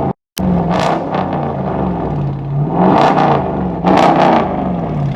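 2017 Dodge Charger Daytona's 5.7 Hemi V8 with its mid-mufflers deleted (resonators kept), revving up and dropping back several times. The sound cuts out completely for a moment shortly after the start.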